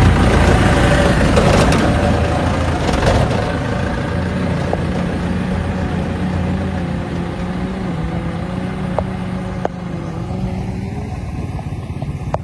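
Truck engine running steadily, loudest at first and slowly fading, its pitch wavering slightly.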